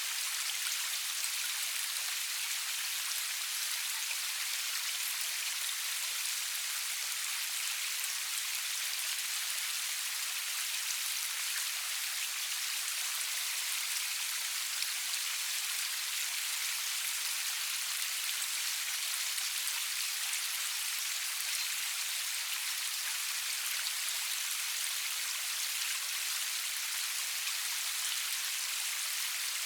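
Steady rain falling, a constant even hiss of many fine drops with no thunder.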